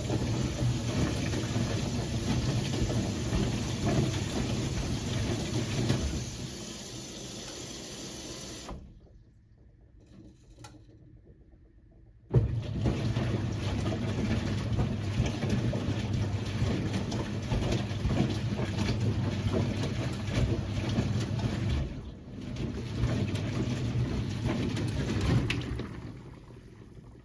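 1978 Siemens WA4600 washing machine drum turning a load of jeans in water: the motor runs with water sloshing, slows and stops for about three seconds, then restarts abruptly with a knock and turns again for over ten seconds, with a brief break near 22 s before it eases off near the end.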